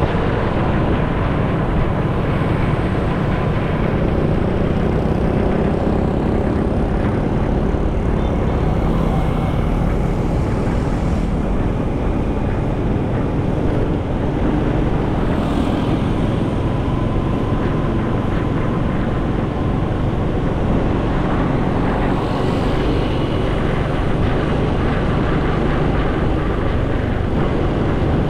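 Motorcycle riding on the road: steady wind rush over the microphone mixed with the engine's drone and tyre noise, without let-up.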